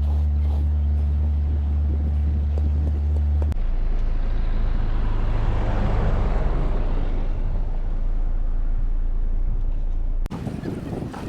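Car engine running with a steady low hum that changes to a lower hum about three and a half seconds in, while a rushing noise swells and fades in the middle. It cuts off abruptly near the end.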